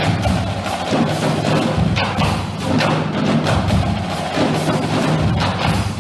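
High school marching drumline playing a cadence: rapid, dense drum strokes over pitched bass drum notes that change every second or so.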